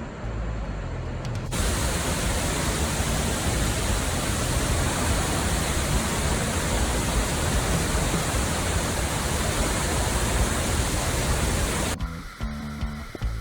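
Waterfall: a steady, loud rush of falling water that starts suddenly about a second and a half in and cuts off near the end.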